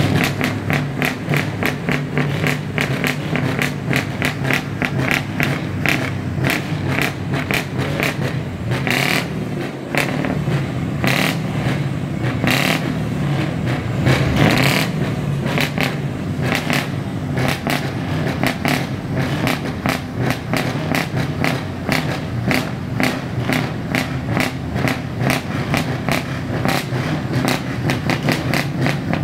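Scania V8 diesel truck engines running through modified exhausts: a steady low engine note with a fast ticking rhythm over it, and several louder bursts of noise about halfway through.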